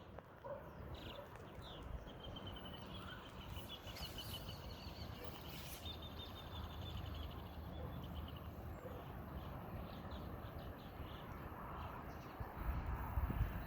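Steady hiss of rain, with a rapid high trill lasting several seconds through the middle.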